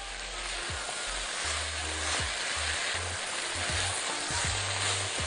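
Beef, green beans and green fava beans sizzling steadily as they are stir-fried and stirred in a nonstick frying pan.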